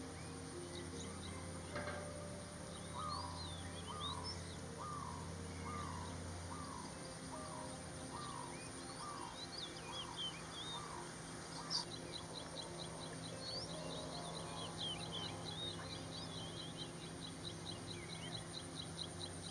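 Wetland bird and insect ambience: a steady high insect buzz, with scattered bird chirps. Through the first half a bird repeats a short down-slurred note, about ten times at roughly one a second. In the second half a fast, even high ticking takes over.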